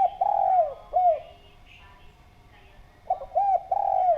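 Spotted dove (derkuku) cooing: two phrases about three seconds apart, each a few short coos, a longer held coo and a closing coo.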